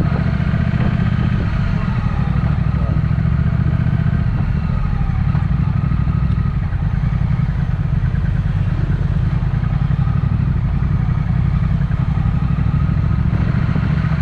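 Triumph Speed Twin's 1200 cc parallel-twin engine running steadily through a Vance & Hines exhaust, low-pitched and even, with no revving.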